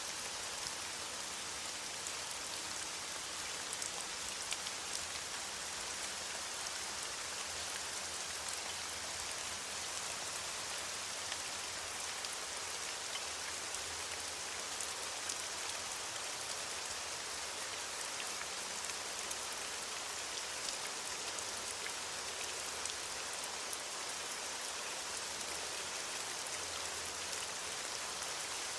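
Steady rain falling on leaves, a dense even hiss with many fine drop ticks and no thunder.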